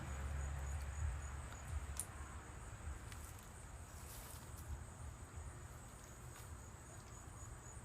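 Faint background with a steady high-pitched pulsing trill, over a low rumble that is strongest in the first couple of seconds, and a few soft clicks.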